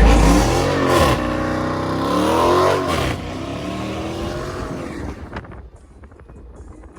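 Car engine revving hard twice, its pitch climbing and falling each time, then fading away.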